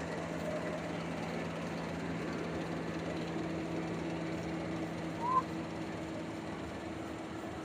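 Rice combine harvester's engine running steadily with a low hum, and a short rising chirp about five seconds in.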